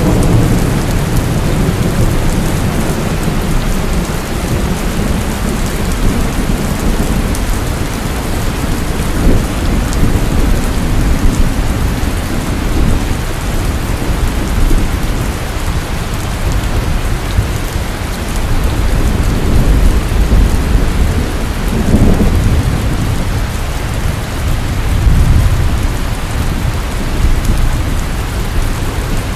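Heavy rain pouring steadily, with low rolling thunder rumbling under it and swelling a few times.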